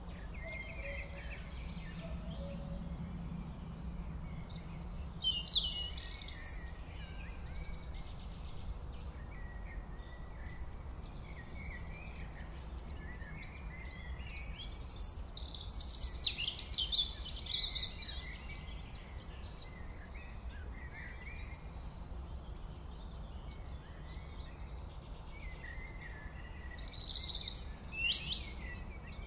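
Small birds chirping and calling, in scattered bursts a few seconds in, in the middle and near the end, over a steady low hum.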